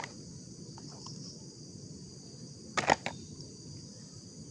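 Steady high chirring of crickets, with one sharp knock about three seconds in and a few faint clicks.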